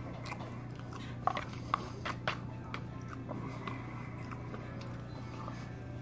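A person chewing a mouthful of poke bowl rice and salmon close to the microphone, with small wet mouth clicks about every half second.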